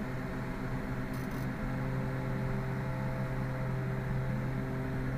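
Twin Cessna's two piston engines and propellers droning steadily at low power, with the propellers set to full rpm: a few steady tones over a low hum.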